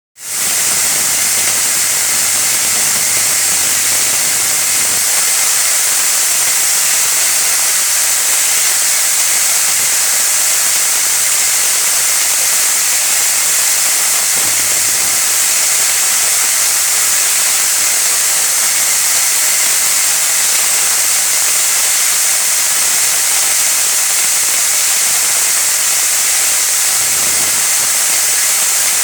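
Steady, unchanging hiss with a faint low mains-like hum beneath it.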